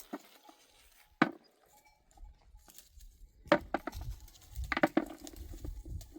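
A few sharp, separate knocks and taps, spaced irregularly over a low rumble.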